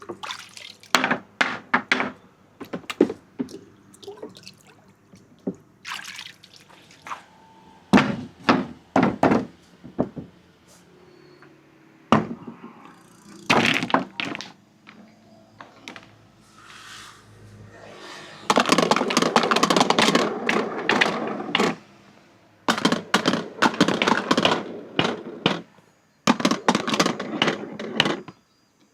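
Marbles rolling and clacking along a marble-run track: scattered sharp clicks and knocks at first, then long stretches of dense rattling clatter, as of many marbles running together, from about two-thirds of the way in.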